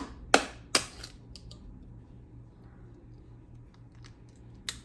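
Three sharp taps within the first second, then a few faint clicks and one more tap near the end: an egg being cracked against a hard edge.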